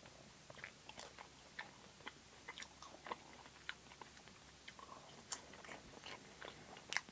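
A person chewing french fries close to the microphone: soft, irregular wet mouth clicks and smacks, with a sharper click near the end.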